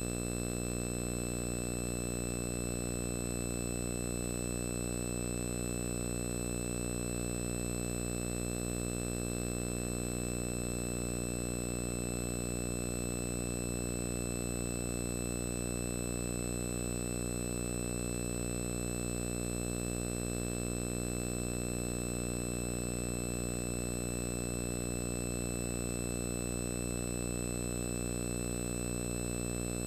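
Steady electrical buzz with many even overtones, unchanging in pitch and level throughout.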